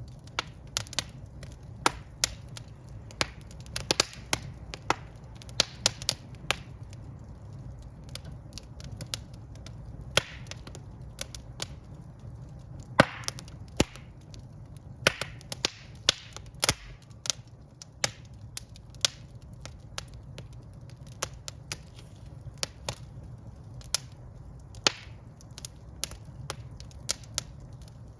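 Wood fire in a fireplace burning, with irregular sharp crackles and pops over a low steady rumble of the flames.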